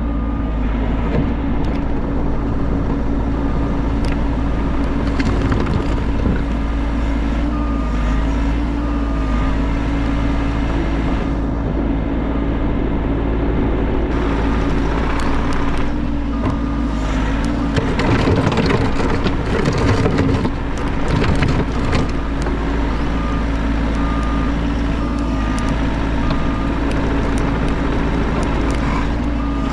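Bobcat E50 compact excavator's diesel engine running steadily, with a short high beep repeating in the background. About two-thirds of the way through it works harder for a few seconds, louder, with clatter from the machine.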